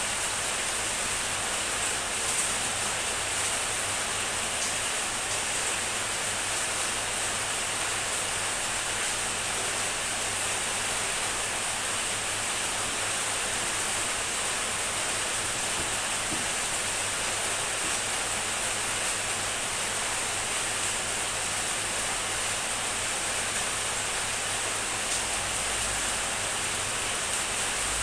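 Heavy rain falling steadily, an even hiss of countless drops with a few faint single drop taps standing out.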